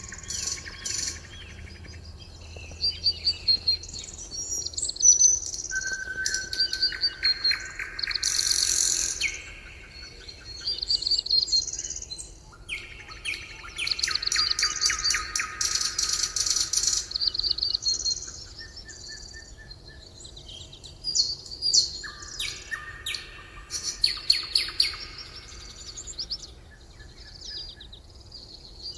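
Several songbirds singing together, with overlapping fast trills and high chirps. The song comes in phrases of a few seconds with short gaps between them, over a faint background hiss.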